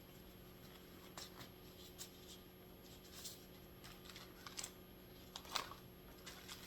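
Faint, scattered light clicks and rustles of small objects being handled, roughly one every second, over a low steady hum.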